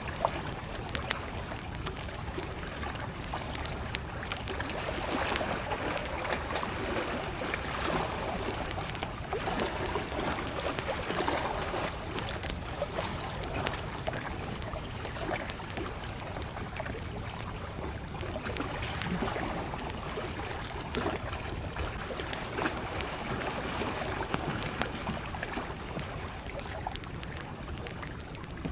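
Small lake waves lapping steadily, with a wood campfire crackling and giving off scattered sharp pops.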